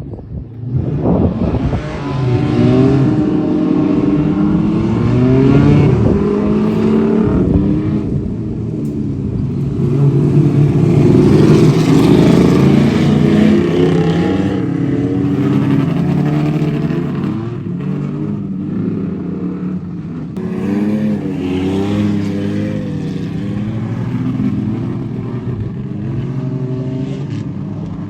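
Several dirt circuit race cars' engines revving and easing off as they run around the track, their pitches rising and falling and overlapping.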